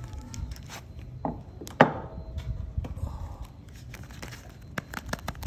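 Scattered clicks and taps of objects being handled, with one sharp knock about two seconds in that rings briefly.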